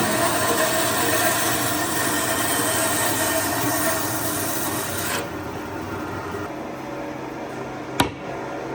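Wood being sanded, a steady abrasive rubbing that stops abruptly about five seconds in, leaving a low hum, then a single sharp click near the end.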